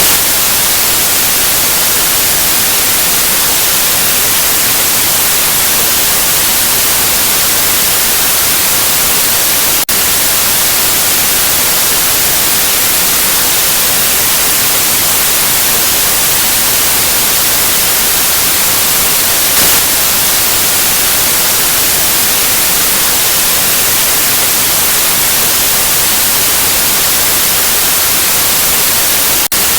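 Synthetic white noise: a loud, steady, even hiss with no tones in it, dipping for a split second twice, about ten seconds in and near the end.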